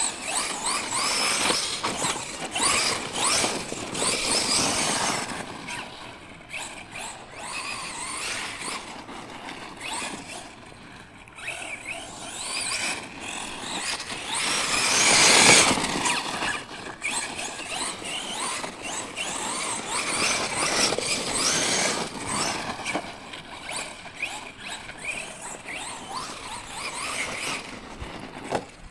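Tekno MT410 2.0 electric 1/10-scale monster truck being driven hard, its motor whining up and down in pitch as the throttle is worked, with tyre and ground noise. It comes and goes in loudness and is loudest about halfway through.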